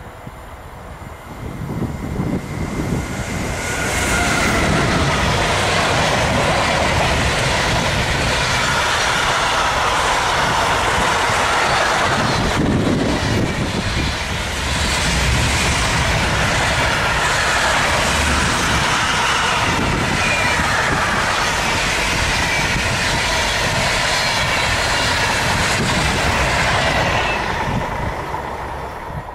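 Electric locomotive hauling a long container freight train past on the main line. The sound builds over the first few seconds as the locomotive approaches, then holds as a loud, steady rumble and clatter of the container wagons' wheels on the rails, and fades quickly near the end as the last wagon goes by.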